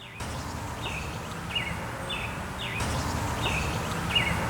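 A songbird calling: short chirps that fall in pitch, repeated over and over about one to two times a second, over a steady background hiss.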